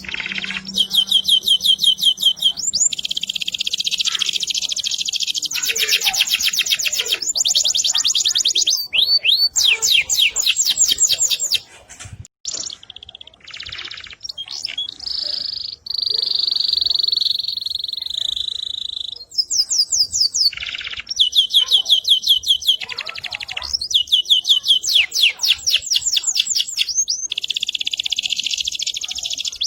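AFS canary singing continuously in full song: fast rattling trills and rapid repeated notes, with a short break about twelve seconds in and then a long held whistled note lasting several seconds.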